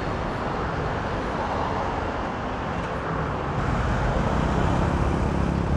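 Motor vehicle engine running amid steady road traffic noise; the engine gets a little louder about three and a half seconds in.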